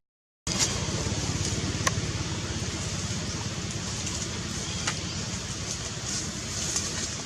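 Steady low rumbling outdoor noise with a few faint clicks, after a brief cut to silence at the start.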